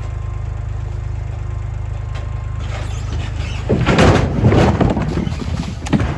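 Logs and cut wood blocks sliding and tumbling out of a raised dump trailer bed, starting about two thirds of the way in, with heavy thuds near the end, over the steady low drone of an idling engine.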